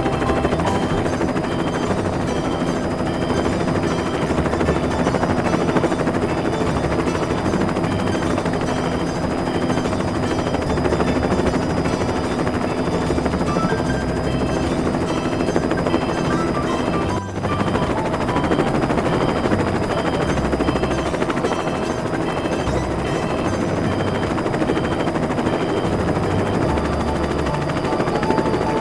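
Helicopter rotor sound effect: a steady, continuous chopping whir for a toy rescue helicopter, with background music. It cuts out for an instant about two-thirds of the way through.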